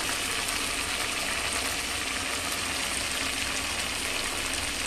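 Chopped mint, coriander and curry leaves frying in hot oil in an aluminium pressure cooker pan, a steady sizzle, with one short tap near the end.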